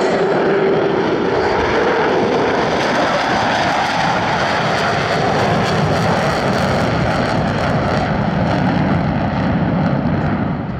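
Boeing F/A-18 Super Hornet's twin jet engines running in afterburner during a high-G turn: a loud, steady jet roar that deepens in pitch as it goes and falls off in level near the end.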